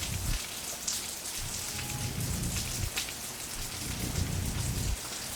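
Steady heavy rain hiss, with patches of low rumbling and a few faint drop-like ticks.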